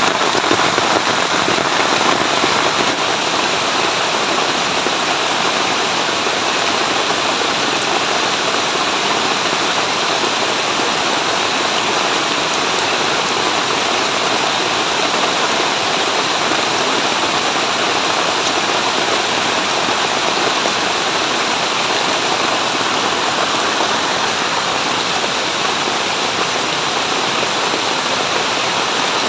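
Heavy rain falling steadily in a forest, a continuous dense hiss of rain with no breaks.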